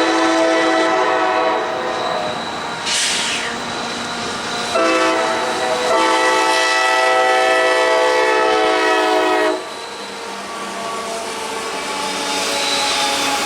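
CSX EMD SD40-2 locomotive's Nathan K5LA five-chime air horn blowing: one blast ends about 2 s in, and another starts near 5 s and is held until nearly 10 s, with a brief hiss between them. After the horn, the freight train's wheels and cars run by on the rails, growing louder near the end.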